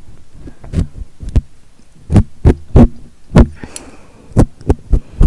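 Tweezers plucking right at the microphone: a loud, irregular series of about ten soft thumps and clicks.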